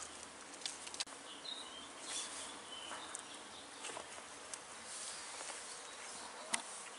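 Small twig campfire burning with a faint hiss and scattered crackling pops, the loudest near the end.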